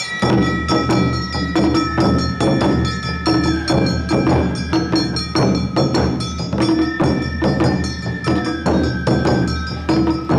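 Awa Odori festival band (narimono) playing: fast, even drum strokes and a metallic kane hand gong beating the dance rhythm, with held, high bamboo-flute notes over them.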